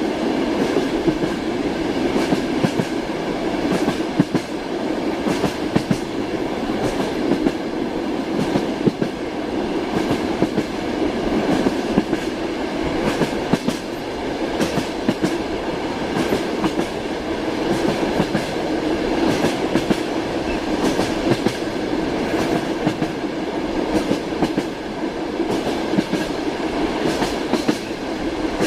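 Steady rumble of a moving passenger train heard from inside a compartment, with the wheels clacking over rail joints.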